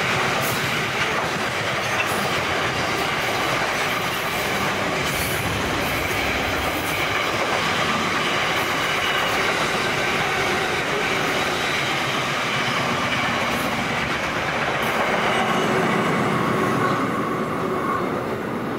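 Container wagons of a long freight train rolling past close by: a steady, loud noise of steel wheels running over the rails, which fades as the last wagon goes by near the end.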